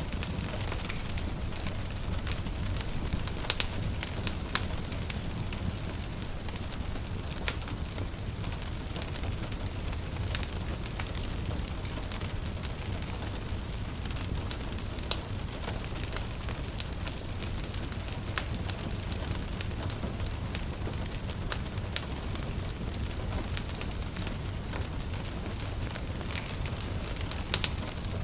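Wood fire crackling in a fireplace, with irregular sharp pops and snaps over a low steady rumble, and gentle rain pattering in the background.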